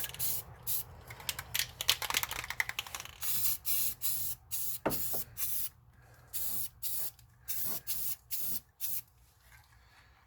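Aerosol spray-paint can spraying a gloss coat in short hissing bursts: a denser run of spraying at first, then about a dozen quick separate spurts.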